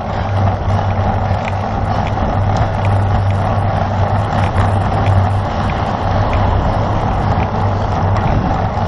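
Steady wind rushing over the microphone, with road and tyre noise from a racing bicycle riding at speed, and a few faint ticks over it.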